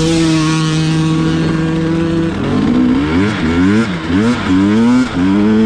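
Two-stroke dirt bike engine held at steady revs, then revved up and down in quick throttle blips for a couple of seconds while riding a tough section, then pulling steadily again near the end.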